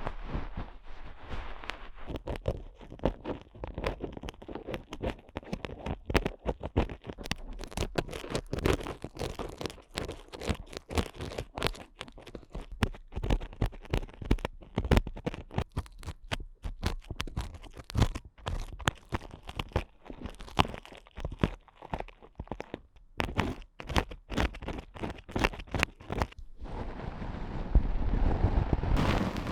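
Ear picks scratching and scraping hard inside a microphone's ear for ear-cleaning ASMR: dense, irregular crackling scrapes, turning into a steadier rubbing noise with a low rumble near the end.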